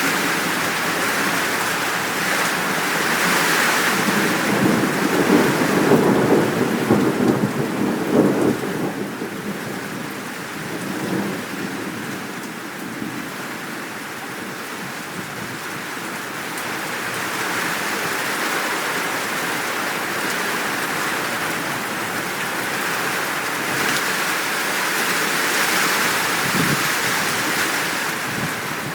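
Steady heavy rain falling, with rolling thunder that swells about four seconds in, peaks around eight seconds and fades, then a fainter rumble a little later.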